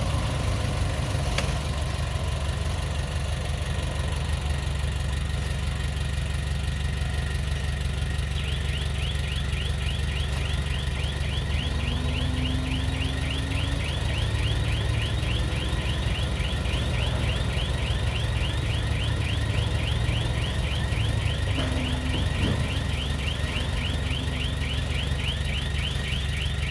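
Diesel engine of heavy earthmoving equipment running steadily. About a third of the way in, a fast, even run of high-pitched chirps starts, roughly four a second, and continues to the end.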